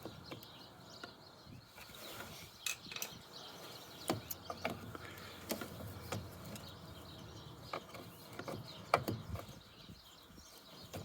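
Scattered light plastic clicks and knocks as the BMW E60's windscreen washer pump is worked up and out of its seat in the washer fluid reservoir.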